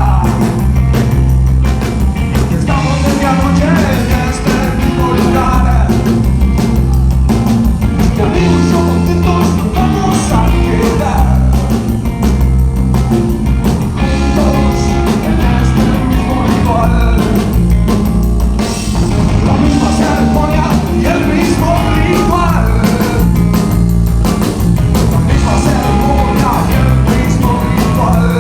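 Live rock song played by a band with loud drums, bass and electric guitar, and a singer's voice over it.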